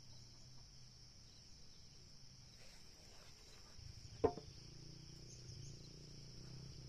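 Steady high-pitched insect trilling, with a single sharp knock a little past the middle.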